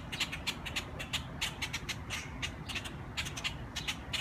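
Several birds giving short, sharp alarm calls over and over, several a second in runs with brief pauses: agitated mobbing calls at a person near their injured flock-mate.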